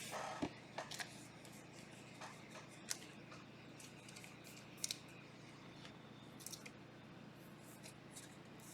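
Faint handling of trading cards: scattered small clicks and brief swishes as cards are slid and sorted through by hand.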